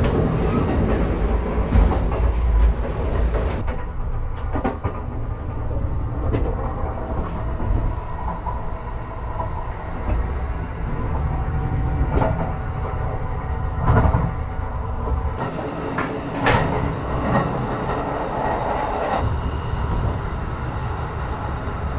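Kintetsu Aoniyoshi express train running, heard from inside the carriage: a steady low rumble of wheels on rails. A handful of sharp knocks and clacks stand out from the rumble.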